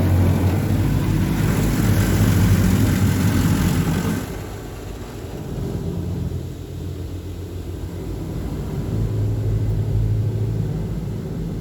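PDQ Laserwash G5 touch-free car wash running: high-pressure water spraying over a low pump hum. The spray hiss cuts off about four seconds in, and the low hum carries on, rising and falling.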